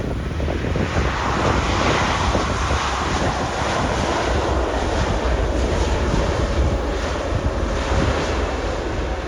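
Jet roar from a Boeing 787-9's GEnx-1B turbofan engines on landing: a steady rushing noise that swells about a second in, with wind rumbling on the microphone and a faint whine near the end.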